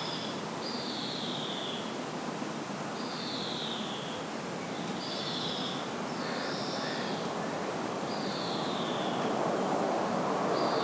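A bird calling over and over, each call a short whistle falling in pitch, about every one to two seconds. A steady hiss of outdoor background noise runs underneath and grows louder near the end.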